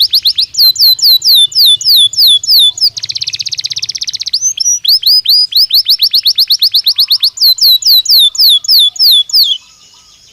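Domestic canary singing: phrases of rapidly repeated down-sweeping whistled notes, some about eight a second and others slower and wider, about four a second, with a very fast buzzy trill about three seconds in. The song stops about nine and a half seconds in.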